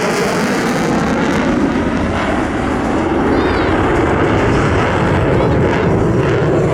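Jet fighter engine roaring loud and steady, its low rumble building after about two seconds.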